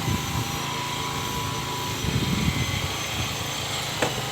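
A small engine running steadily with a low, even hum that swells briefly about halfway through, and one sharp click near the end.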